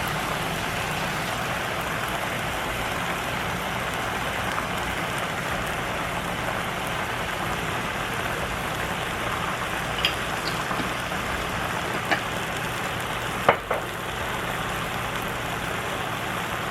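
Food sizzling steadily in a pan over medium-high heat, with a few light knocks in the second half, likely a spoon or jar against the pan.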